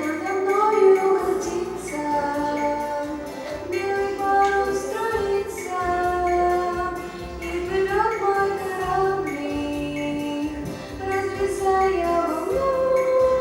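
Young voices singing a song's melody over instrumental accompaniment with a bass line.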